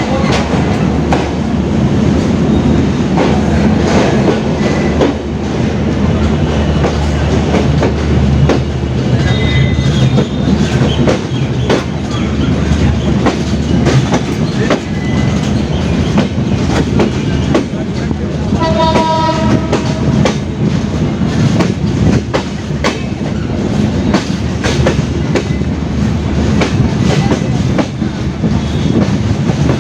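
Passenger train running along the line, heard from on board: a steady rumble with repeated wheel clicks over the rail joints. A brief pitched tone sounds about two-thirds of the way through.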